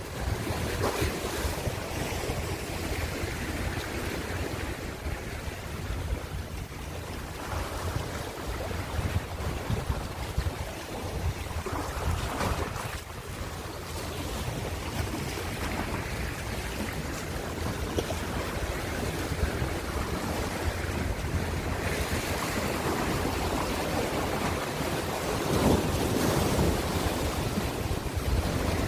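Ocean surf: waves breaking and washing in, swelling and easing, with a louder surge near the end. Under it runs a low rumble of wind on the microphone.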